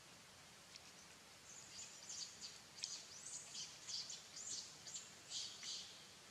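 A run of short, high-pitched animal chirps, faint and quick, starting about a second and a half in and stopping shortly before the end.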